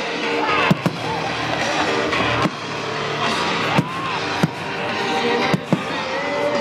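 Fireworks display: sharp bangs of shells bursting, about half a dozen scattered through, over music from a loudspeaker sound system.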